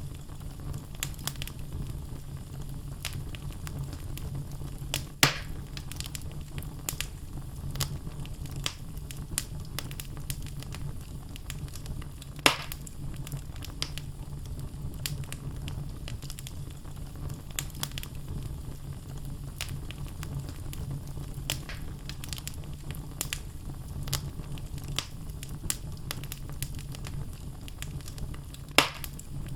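Wood fire burning in a fireplace: the logs crackle with frequent small pops over a steady low rumble of flame, and three louder snaps stand out, spread through the stretch.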